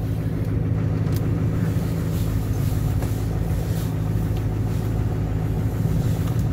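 2006 Duramax 6.6-litre V8 turbo-diesel pickup engine idling steadily just after a cold start in deep cold.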